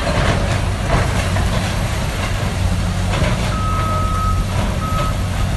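Heavy demolition machinery running with a steady engine hum, with scattered cracks and crunches of a building being torn down. A reversing alarm beeps twice past the middle, one long beep then a short one.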